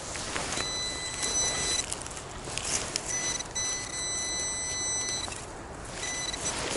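Metal detector giving a steady high-pitched electronic tone in three stretches, the longest about two seconds, over a steady background hiss: the detector is signalling a metal target.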